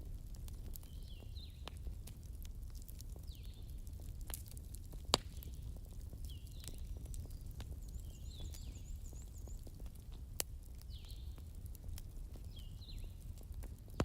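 Campfire crackling, with scattered sharp pops over a steady low rumble; the sharpest pop comes about five seconds in. An animal's short, high call repeats about every two seconds behind it.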